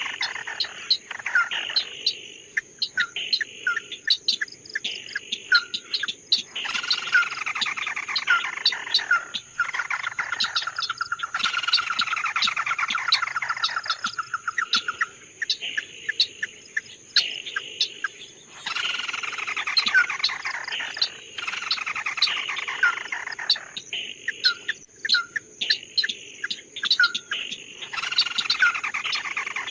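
A 'chim mắt đỏ' songbird singing: repeated phrases of clear whistled notes that slide down in pitch, with a long fast trill in the middle and short pauses between phrases.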